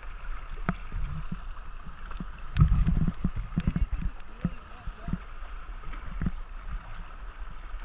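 Paddle strokes and water splashing and slapping against a tandem kayak's hull on moving river water, with irregular knocks and low thuds, loudest about two and a half seconds in.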